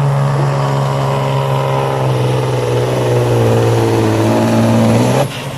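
Supersport-class pulling truck's diesel engine running flat out under the load of the pulling sled, its pitch sagging slightly as the load builds. A little after five seconds the throttle is cut and the engine note drops away suddenly, marking the end of the run.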